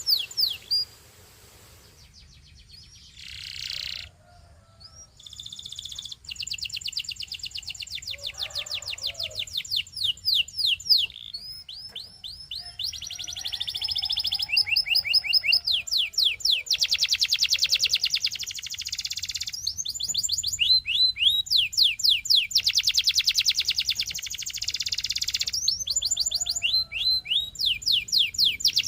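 Canary singing: long, rapid trills of repeated sweeping notes, changing from one roll to the next, after a quiet few seconds near the start.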